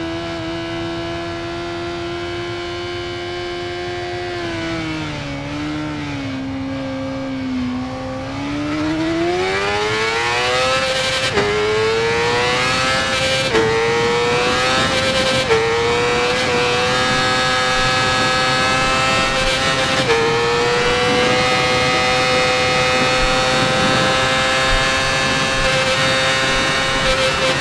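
Yamaha R6 inline-four engine through an Akrapovic exhaust. It holds a steady high rev, eases off, then accelerates hard with a rising pitch, shifting up about four times with a short dip in pitch at each shift, and settles into a steady high-revving run.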